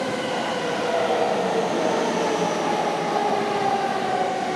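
Electric commuter train running at the station: a steady rumble with a motor whine that glides slowly down in pitch, as a train slows.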